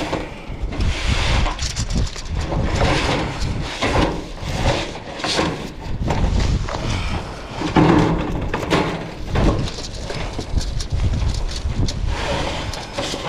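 Metal ridge cap being shifted and slid along a metal pole-barn roof: irregular knocks and scraping of sheet metal on metal, with wind buffeting the microphone.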